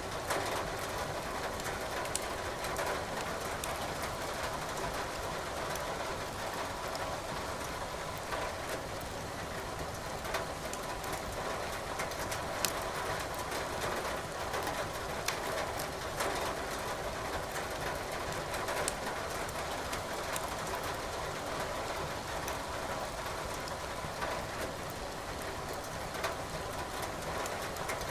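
Wood fire crackling in a fireplace, sharp pops coming irregularly every second or few, over a steady hiss of rain.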